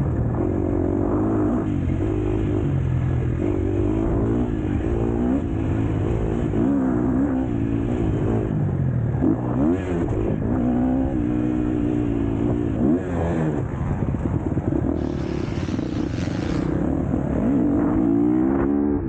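KTM SX-F four-stroke motocross bike engine under race load, its pitch climbing and dropping over and over as the throttle is opened, the gears shift and it backs off.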